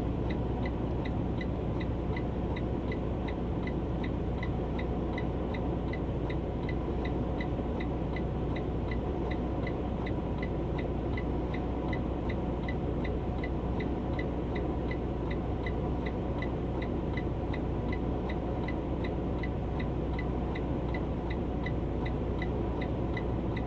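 Truck engine idling steadily, heard inside the cab as a low hum, with a steady high ticking about three times a second over it.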